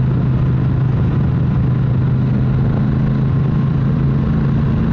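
Triumph motorcycle engine running steadily while being ridden, heard from the bike with a rush of wind and road noise. A higher engine tone comes in partway through.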